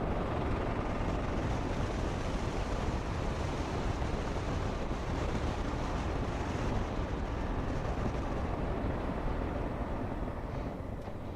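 Motorcycle under way, heard from a helmet-mounted camera: a steady rush of wind over the microphone mixed with engine and tyre noise, easing slightly near the end.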